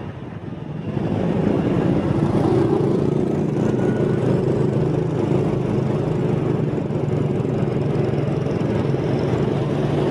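Motorbike engine running steadily under way, with road and wind noise, getting louder about a second in and then holding even.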